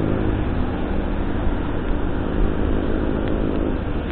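Steady road noise of a vehicle driving, a low, even rumble with no distinct events.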